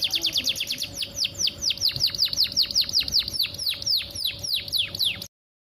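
Female canary in breeding condition giving a long series of repeated chirps, each sweeping downward in pitch, the calls a female uses to draw a male. The chirps come quickly at first, then slow to about three a second, and stop abruptly near the end.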